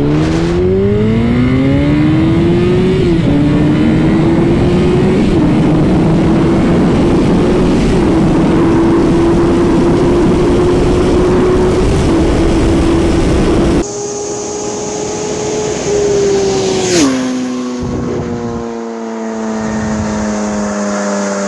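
Yamaha R1 inline-four with an aftermarket Two Brothers exhaust accelerating flat out. It rises in pitch and shifts up twice in the first few seconds, then holds a steady high-rpm note with wind rush at about 155 mph. About two-thirds of the way in the sound cuts to a roadside recording: the bike comes in at speed and passes about three seconds later, its pitch dropping sharply as it goes by and falls away.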